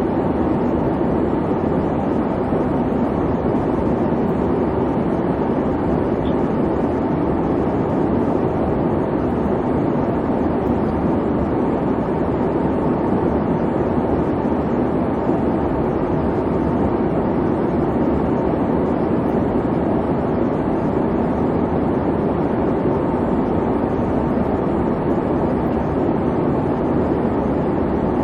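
Steady airliner cabin noise in flight: an even, unbroken rush and hum of engines and airflow, heaviest in the low-middle range.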